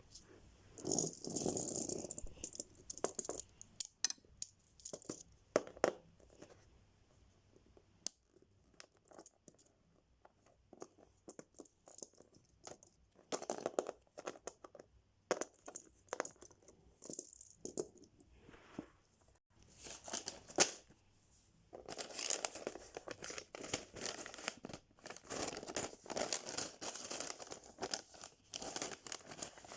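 Plastic Lego parts bags being torn open and crinkled, with short irregular clicks between the bursts; a longer stretch of crinkling near the end.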